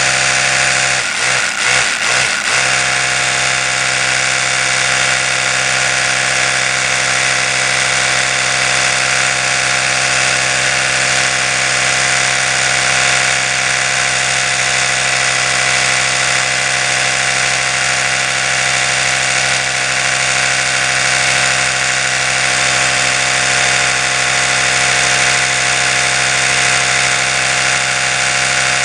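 Oral-B electric toothbrush running with a steady buzzing hum. About a second in, the hum briefly stutters three times, then settles back to a constant buzz.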